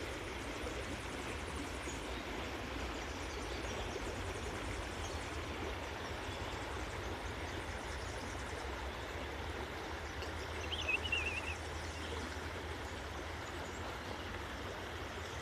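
Minnehaha Creek's water running with a steady rush. A bird gives one short warbling call about eleven seconds in.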